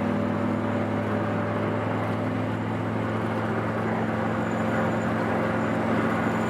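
A car engine running at a steady speed: an even drone that holds one pitch throughout.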